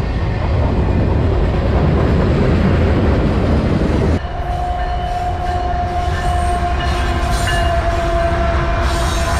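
Freight train passing close by, with loud rumbling wheel and rail noise. About four seconds in it cuts off abruptly, and a steady high ringing tone continues over a lower train rumble.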